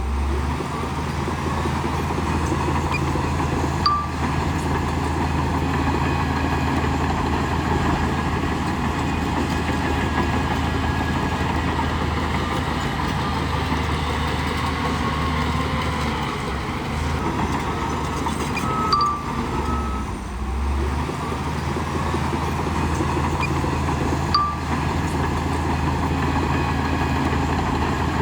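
Bulldozer's heavy diesel engine running steadily under load, its pitch dipping briefly about two-thirds through, with three brief sharp metallic knocks.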